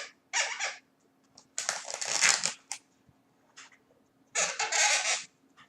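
Latex balloon rubbed in several short scratchy strokes, each under a second long, with quiet gaps between.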